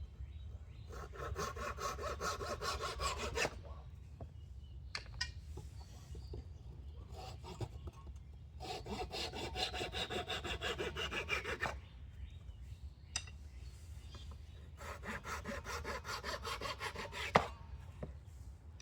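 Wood being worked by hand with quick back-and-forth strokes, in three bouts of a few seconds each with pauses between. A single sharp knock comes near the end of the last bout.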